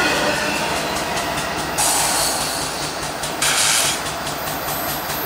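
CSX freight train cars rolling past, wheels clicking rhythmically over the rail joints under a steady rumble, with two brief bursts of hiss partway through.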